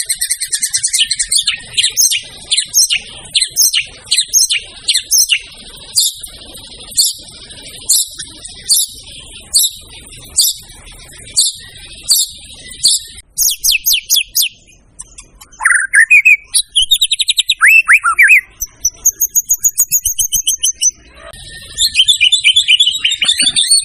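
White-rumped shama singing loudly and continuously: a run of sharp repeated notes, about two a second at first and then slower, followed by whistled slurs and trills and a fast chatter near the end.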